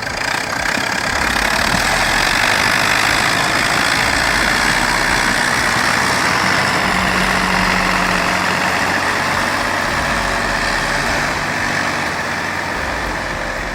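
Tractor engine running steadily under load, a dense mechanical noise that holds at one level and eases off near the end.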